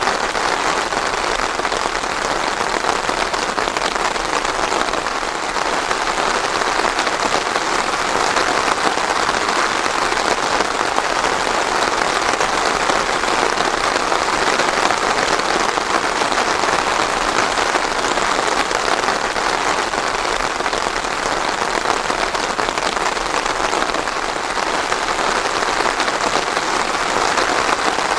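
Steady, even rain falling, without thunder.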